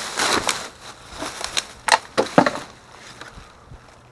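Rummaging through discarded goods: plastic packaging and bags crinkling, then a few sharp knocks as items are handled, dying down about three seconds in.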